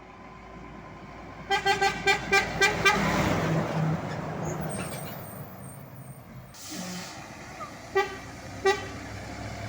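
A Scania truck's maritime-style air horn sounds a rapid string of about six short toots, then the truck's engine and tyres go by loudly. Two more short toots come near the end.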